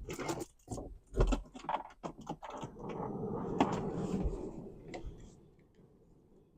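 Clicks and rattles of the smart car's door window parts being handled and switched, then the replaced window motor and regulator running steadily for about two seconds before fading out, as the repair is tested.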